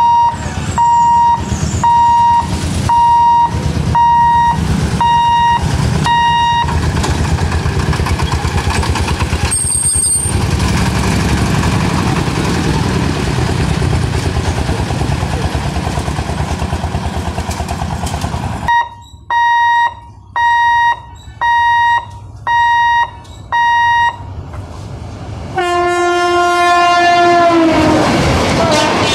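A railway level-crossing warning signal beeping about once a second over idling motorbike engines, then motorbikes and a loaded three-wheeler crossing the tracks, then the beeping again. Near the end an express train's locomotive horn sounds a long blast whose pitch drops as the locomotive passes, and the train rumbles by.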